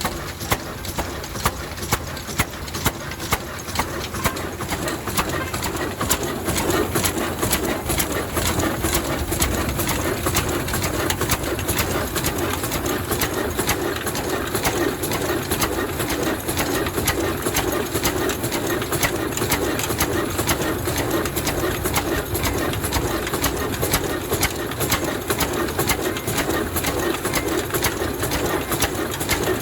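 Vintage 35 HP Ruston diesel engine running with a rhythmic exhaust beat, about two strong beats a second at first. After a few seconds the beats come closer together and a steady hum joins in.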